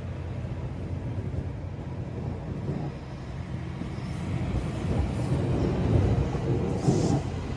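GO Transit commuter train running, a low steady drone with rumble that grows louder from about halfway through.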